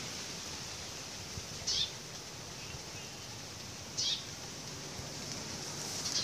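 Young plain prinia calling: short, high, slightly falling calls repeated about every two seconds over a steady background hiss.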